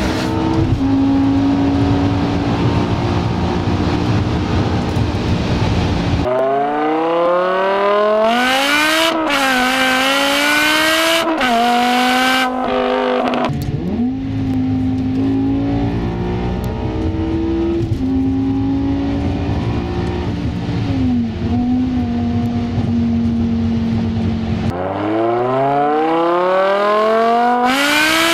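BMW M6's V10 through an Eisenmann race exhaust with straight pipes: cruising at steady revs, then pulling hard several times, its pitch climbing through the gears and dropping back at each upshift. It is heard first from inside the cabin and near the end from beside the car.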